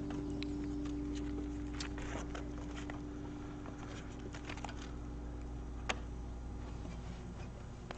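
Campfire crackling with scattered small pops, one sharper pop about six seconds in; the last guitar chord of the hymn rings out and fades over the first few seconds.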